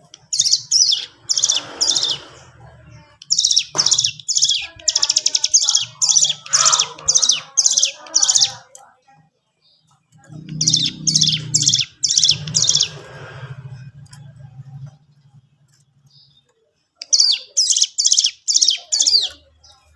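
Ciblek gunung (cigun) singing in three phrases of rapid, sharp, high repeated notes, with short pauses between them.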